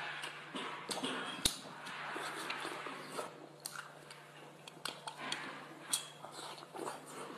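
Chewing and wet mouth noises of a person eating pieces of spicy cooked scallop adductor meat, broken by a scatter of sharp clicks, the loudest about one and a half seconds in.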